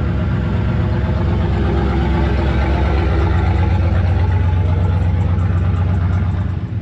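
A truck engine running steadily at idle, loud and low-pitched.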